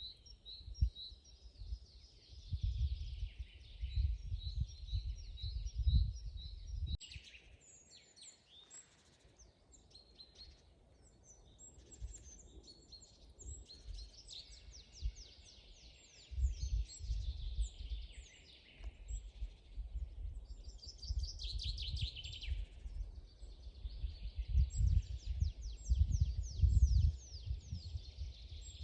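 Forest birds singing, a mix of chirps, trills and quick falling notes from several birds. Underneath, a low rumble comes and goes, strongest in the first seven seconds and again through the second half.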